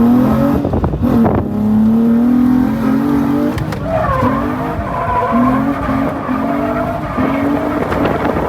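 Drift car's engine revving hard and held high with brief dips and rises, while its tyres squeal as the car slides.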